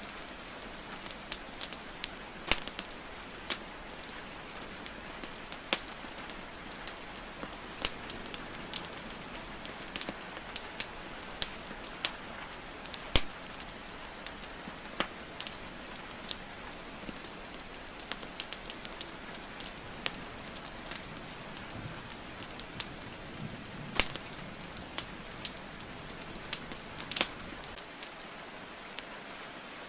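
Wood fire crackling and popping with sharp, irregular pops, over a steady hiss of falling rain.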